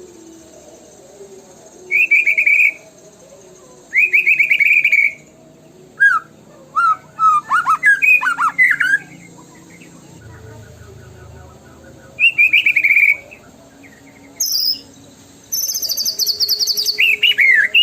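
White-rumped shama song in separate loud bursts: short rapid trills, a run of varied quick whistled notes in the middle, and a long high trill near the end. It is a lure recording played to make a caged shama start singing.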